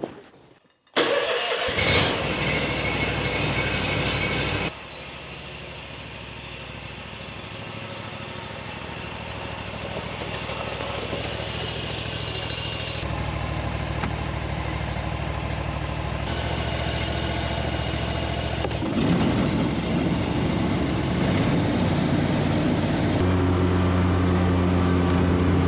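Skag zero-turn mower engine starting up and running, heard in several short segments that cut from one to the next, loudness and pitch shifting with each.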